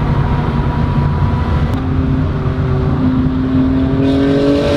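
Car engine under acceleration, its pitch rising slowly and steadily over a few seconds, over a heavy low rumble.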